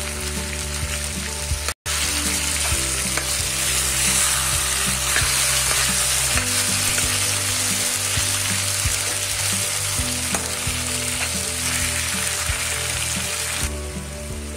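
Raw papaya cubes and tomato-spice masala sizzling in hot oil in a kadhai, with a steel spoon stirring and scraping the pan as the salt is mixed in. The sound cuts out for an instant just under two seconds in, and the sizzle eases a little near the end.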